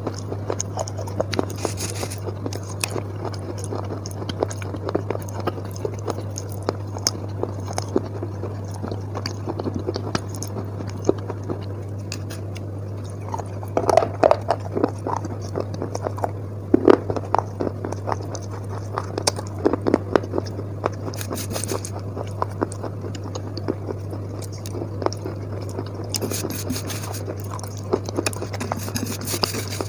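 Close-up chewing and crunching of slate pencil pieces mixed with slate-powder paste, with fingers squishing and scraping the paste against a steel plate. The crunching gets louder for several seconds about halfway through, over a steady low hum.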